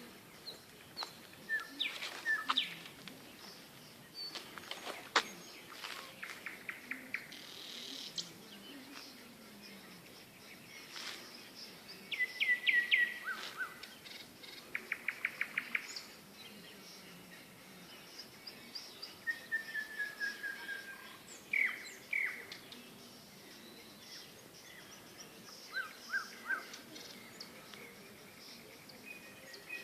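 A nightingale singing in separate phrases: sharp repeated notes, fast rattling trills and a drawn-out falling whistle, with short pauses between phrases.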